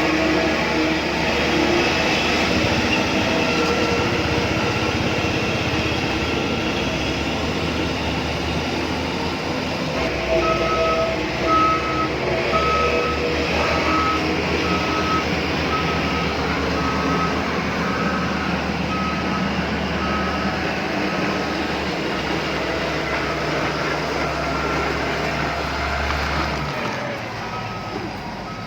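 RC construction truck's sound unit running a steady engine hum. About a third of the way in, a reversing beeper starts, beeping a little more than once a second. The low engine hum drops away near the end.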